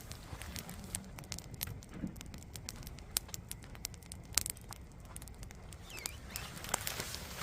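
Firewood burning in a campfire, crackling with many irregular sharp pops over a low steady rumble; the loudest pop comes about four seconds in.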